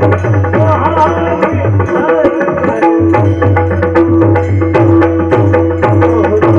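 Instrumental passage of Indian devotional music: a pakhawaj barrel drum played in a quick run of strokes with a deep bass stroke, under steady held notes and a moving melody from a melodic instrument.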